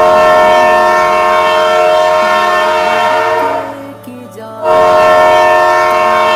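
Train horn sounding two long, loud blasts with a short gap between them; the first fades out before the second starts.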